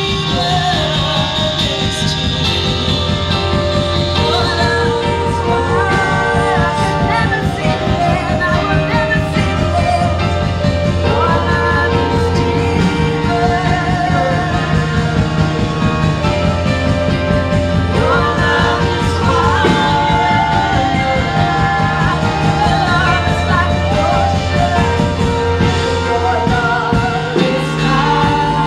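Upbeat Christian praise and worship music: singing over a band with a steady beat and a strong bass line.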